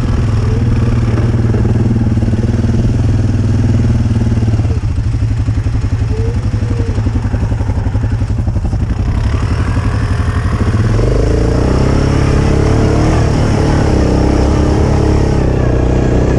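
ATV engine running under way. It eases to a lower, pulsing note about four seconds in, then revs up and runs louder again from about eleven seconds in.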